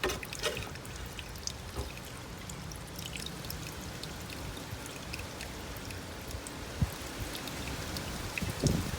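Water pouring and trickling steadily out of a cut pool pipe as the pool filter drains, with a few light clicks and knocks.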